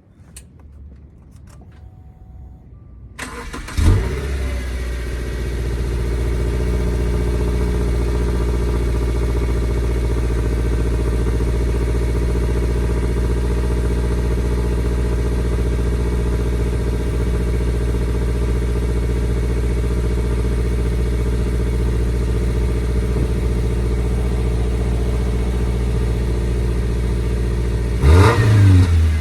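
2015 Subaru Outback 2.5i's flat-four engine exhaling through an STI muffler. After a few faint clicks it starts about three seconds in with a brief flare, then settles into a steady idle. It is revved once briefly near the end.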